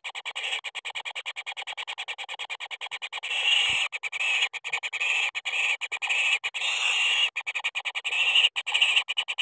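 Rapid pulsed animal calling, a steady chirring of about nine or ten pulses a second, swelling louder a few times.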